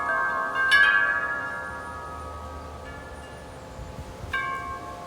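Wind chimes knocked about by strong, gusty wind. A cluster of strikes about a second in rings on and slowly fades, then a few more strikes sound near the end.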